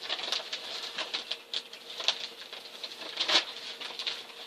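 Plastic dog food bag material crinkling and crackling as it is handled and folded, in irregular small crackles with one louder crackle near the end.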